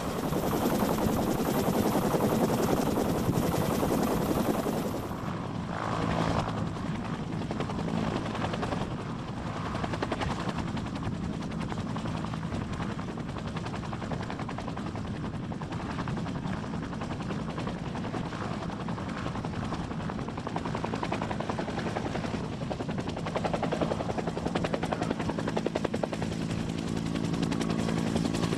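Helicopter running, a rapid steady beat of rotor blades over a low engine drone, louder in the first few seconds and again near the end.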